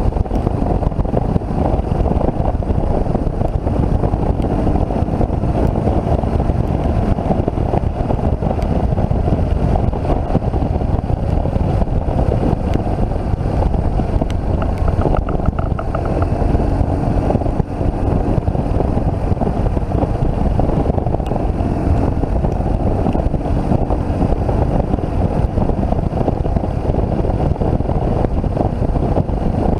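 BMW motorcycle riding at a steady pace: the engine's steady rumble mixed with the rush of wind over the microphone.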